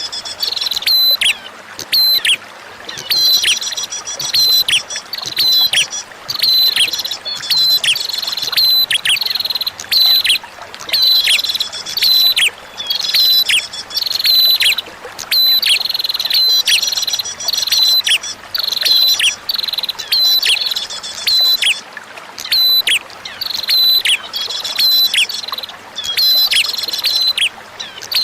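Prinia (prenjak) song: short bursts of high chirps with quick falling notes, repeated every second or two without pause. A faint steady trickle of flowing water runs underneath.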